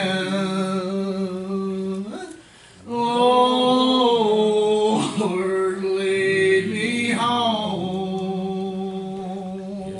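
A man singing a slow gospel song, holding long drawn-out notes, with a brief pause for breath about two seconds in.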